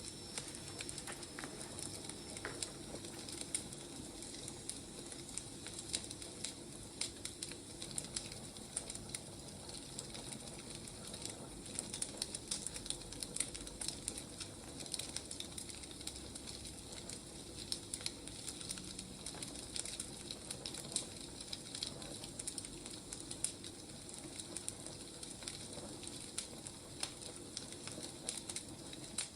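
Firewood burning: a steady hiss with frequent sharp crackles and pops.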